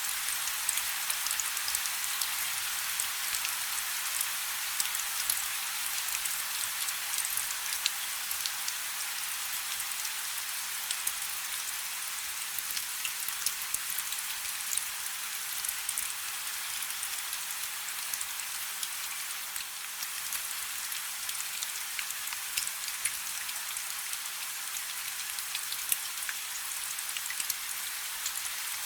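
Steady light rain, a fine hiss of many small drops with scattered sharper drip ticks.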